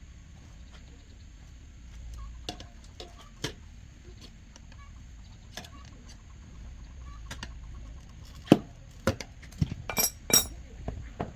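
Scattered light clicks and knocks, then a handful of louder knocks in quick succession near the end.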